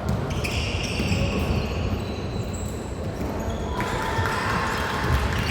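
Basketball game court noise: a ball bouncing on the court over a steady din.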